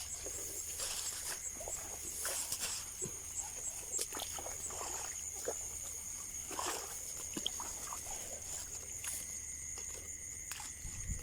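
Insects chirring steadily in a high, continuous tone, with a faster pulsing call above it, over scattered rustles and clicks of close handling.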